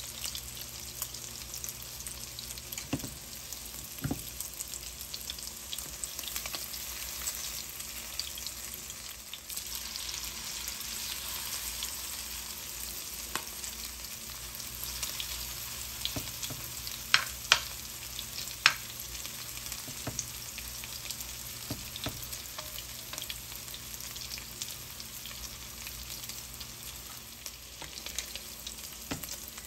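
Broccoli, egg and cheese fritters sizzling steadily in hot oil in a nonstick skillet, with wooden spatulas scraping and turning them. Three sharp clicks stand out a little past halfway.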